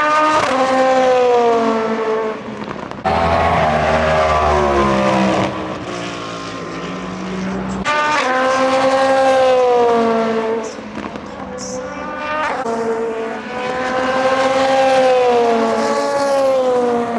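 Endurance race cars passing one after another at high revs, about four in turn. Each engine note rises and then drops in pitch as the car goes by.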